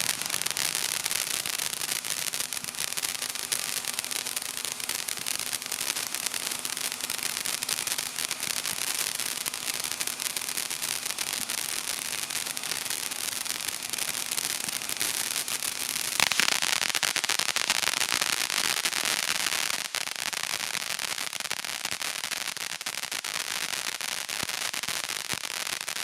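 Consumer aerial fireworks crackling densely and continuously, with a fresh, louder burst of crackle about sixteen seconds in.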